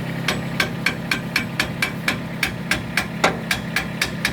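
Kubota tractor engine idling, with an even run of sharp taps at about four a second, a little louder a bit over three seconds in.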